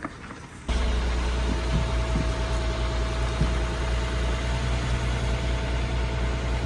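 An engine running steadily at an even speed, with a low rumble and a faint steady whine above it. It comes in abruptly under a second in.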